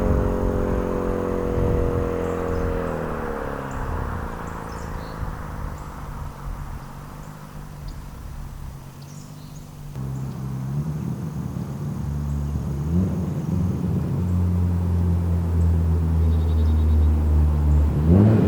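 Hyundai Genesis Coupe 2.0T's turbocharged four-cylinder through an ISR GT single-exit catback exhaust. The engine note falls in pitch as the revs drop over the first few seconds and fades. After an abrupt change about ten seconds in, a steady low drone grows louder, and near the end the revs climb sharply.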